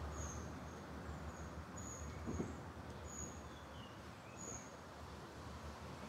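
Birds chirping: short high-pitched notes about once a second, with a few lower falling notes, over a low rumble.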